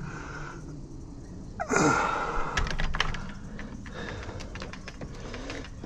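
Clicking and rattling of UPVC door lock hardware being worked while it is tested, with a short falling scrape about two seconds in followed by a run of sharp clicks.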